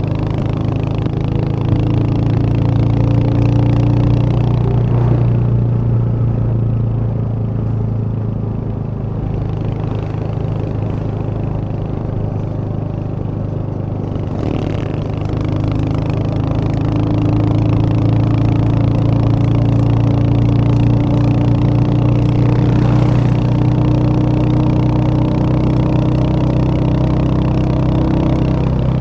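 Royal Enfield Hunter 350's 349 cc single-cylinder engine running steadily while riding, easing off a little about six seconds in and pulling harder again about fifteen seconds in.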